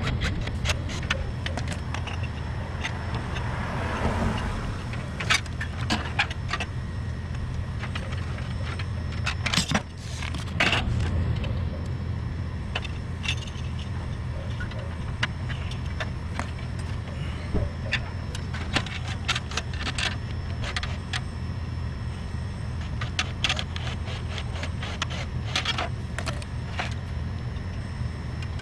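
A steady low machine hum, with many scattered metallic clicks, clinks and light knocks from tools and small metal parts being handled during the repair. The clicks are thickest around a third of the way in.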